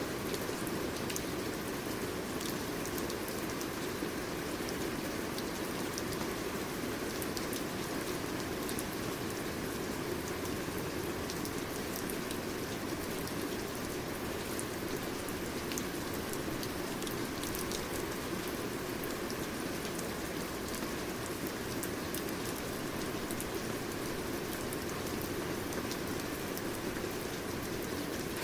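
Steady rain falling, an even hiss with the ticks of individual drops hitting a surface.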